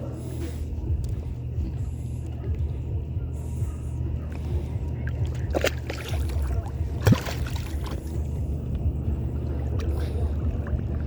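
Steady low rumble of a kayak on the water, with a sharp knock about five and a half seconds in and a louder knock about seven seconds in.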